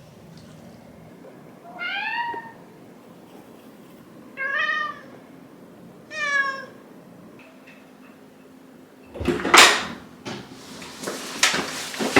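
A cat meowing three times, each meow rising then falling in pitch, about two seconds apart. About nine seconds in there is a loud burst of noise, followed by scattered clicks and rustling.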